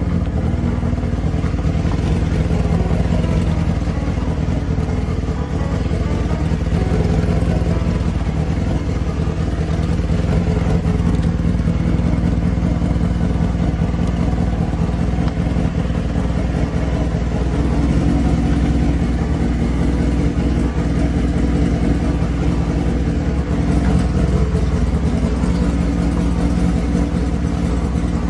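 Honda Jade 250 inline-four motorcycle engine running steadily, holding an even speed with no big revs.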